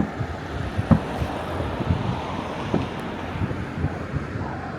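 Distant fireworks going off across the city: a rapid, irregular patter of low bangs and pops, the loudest about a second in, over a steady rushing background of wind on the microphone.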